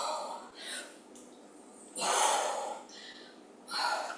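A woman breathing hard while exercising: about four forceful, noisy breaths, the loudest about two seconds in.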